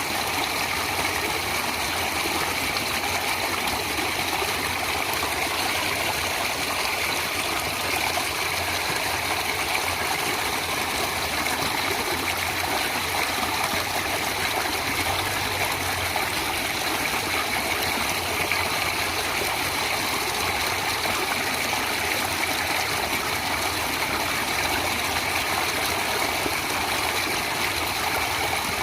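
Natural running water, such as a stream, flowing steadily: an even rushing hiss with no breaks.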